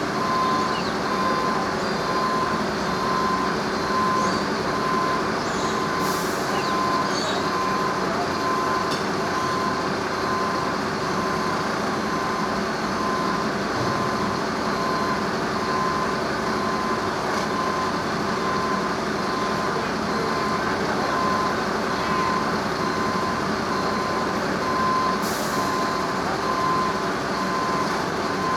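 A vehicle's reversing alarm beeping evenly at one pitch, over the steady sound of its engine running.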